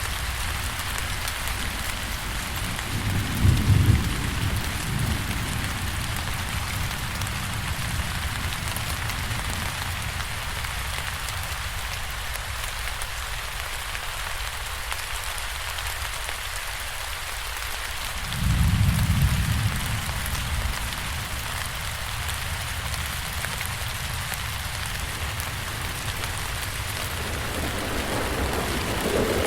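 Steady rain hissing and pattering, with two short low rumbles, about three seconds in and again about eighteen seconds in.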